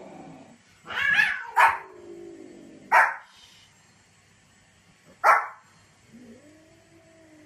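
A small white Pomeranian barking sharply at cats, about four short high barks spaced one to two seconds apart. Near the end there is a softer, longer, lower-pitched call.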